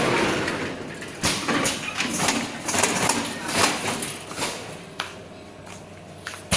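Screen-printing machine at work: a sharp clack about a second in and another near the end, with uneven sliding and scraping sounds between.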